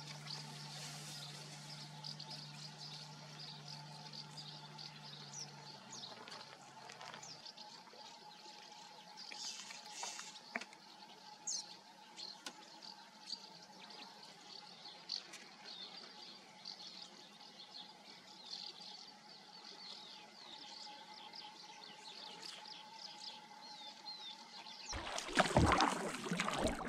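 Birds calling over a pond, many short high chirps and twitters. Near the end a louder rustling, crackling burst.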